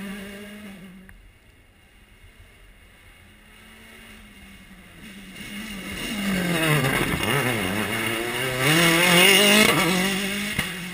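Rally car passing at speed. Its engine grows louder on the approach and drops in pitch as it goes by about seven seconds in. The note then climbs under hard acceleration, with a gear change, and fades away. The tail of an earlier car dies away in the first second.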